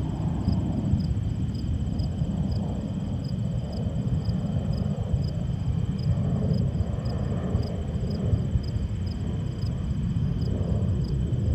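Steady low rumble of a heavy engine running, with a faint high tick repeating about twice a second.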